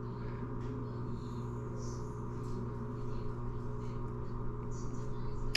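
Steady low hum of room tone with faint scattered handling sounds, and a sharp click near the end.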